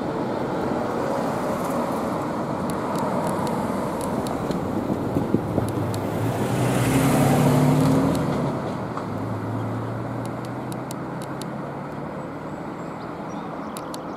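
Steady rolling rumble and rattle of double-stack intermodal container cars moving away on the rails, with scattered sharp clicks. About halfway through the sound swells briefly with a low, slightly falling hum, then eases off.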